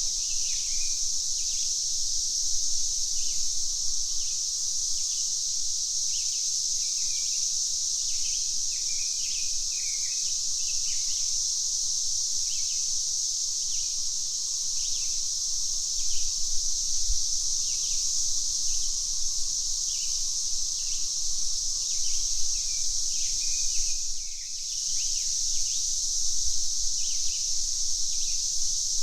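Cicadas droning in a steady high-pitched chorus, with birds chirping short repeated calls below it about once a second. The drone dips briefly late on, then resumes.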